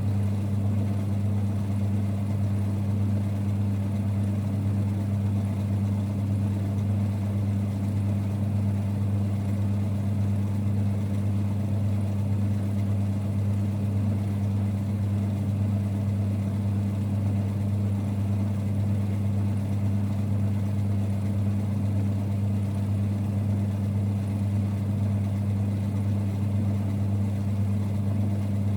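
1946 Boxford lathe running steadily: a constant low rumble with a strong even hum.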